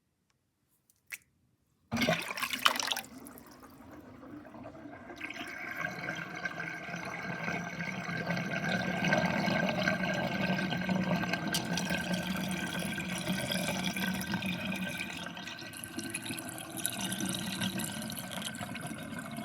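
Water draining through a kitchen sink's drain basket, gurgling. A short burst of rushing water about two seconds in, then gurgling that builds over a few seconds and goes on steadily.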